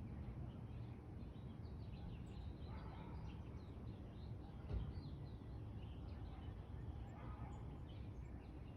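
Birds chirping, many short calls, over a steady low rumble, with a soft thump a little before the middle.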